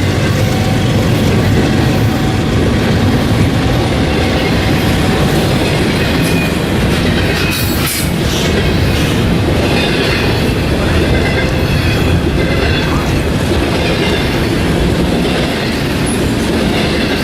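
A train passing close by: a steady, loud rumble of wheels on the rails and locomotive running, with some high wheel squeal in the second half.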